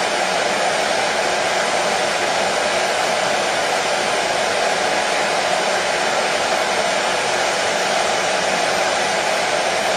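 Hair dryer running steadily: an even, unchanging blowing hiss with a faint steady hum, used as white noise to soothe a baby to sleep.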